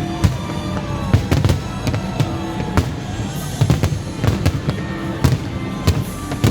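Fireworks display: many sharp bangs and cracks in quick, irregular succession, several a second, with music playing along under them.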